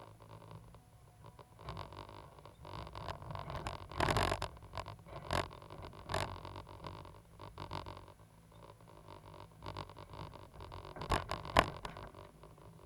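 Caterpillar 320GC excavator running with a steady low engine rumble, broken by several sharp knocks, the loudest about four seconds in and two in quick succession near the end.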